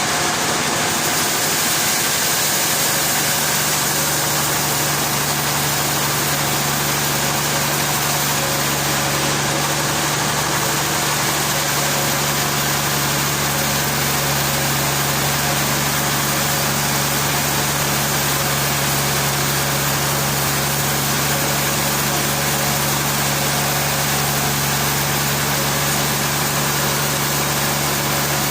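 Sawmill machinery engine running steadily at a constant pitch, with a low hum under a wide, even hiss.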